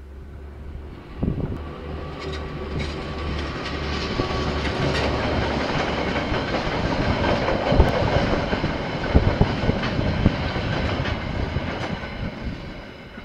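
Diesel-hauled freight train passing close by: a low locomotive engine drone at first, then wagons rattling over the rails with sharp clacks of wheels crossing rail joints. The sound builds to its loudest in the middle and cuts off suddenly at the end.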